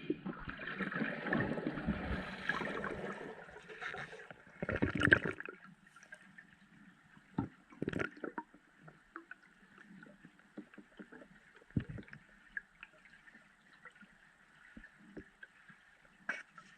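Water sloshing and gurgling for the first few seconds, with another short surge about five seconds in, then a quiet stretch with scattered faint clicks.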